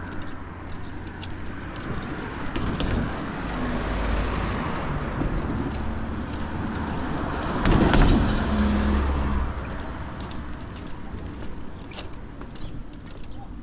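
A car driving past: its tyre and engine noise swells, is loudest about eight seconds in, then fades away.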